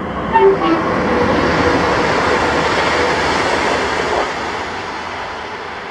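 A train passing at speed: a steady rush of wheel and wind noise that fades away over the last second or two, with a few short squeal-like tones near the start.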